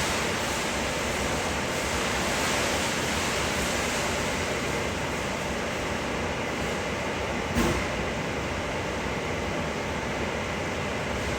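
Steady rushing background noise, like a fan or air handler running, with a single knock about two-thirds of the way through.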